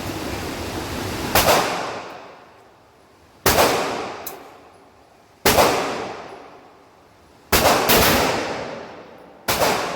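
Desert Eagle .50 AE pistol firing five slow, evenly spaced shots about two seconds apart. Each shot rings out for over a second before the next.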